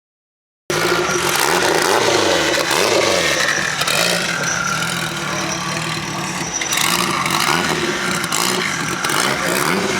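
After a brief dead gap, a modified car engine is revved in a few blips, its pitch climbing and falling.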